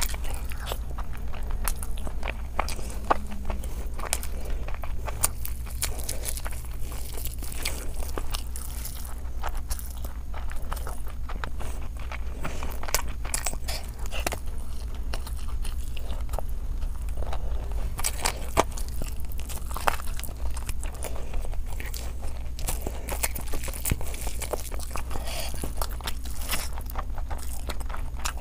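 Close-miked eating sounds: chewing and biting big hand-fed mouthfuls of biryani and mutton curry, a steady run of wet smacks and small clicks. A steady low hum lies underneath.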